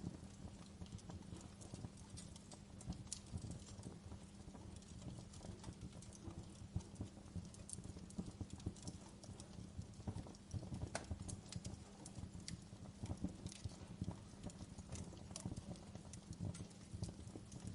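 Wood fire burning in a fireplace, crackling with irregular sharp pops from the logs over a low steady rumble.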